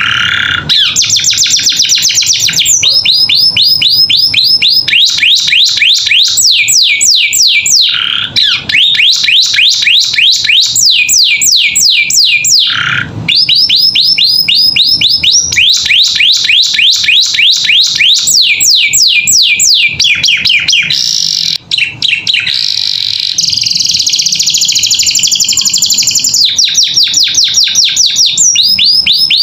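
Canary singing a long, loud song of fast trills: rolls of rapid, sharply falling whistled notes repeated in phrases of a few seconds. A few short lower notes break in, and near the end comes a higher, denser roll.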